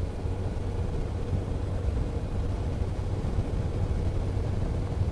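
Steady road noise of a car driving on a paved road: a low, even drone of engine and tyres with a faint steady hum.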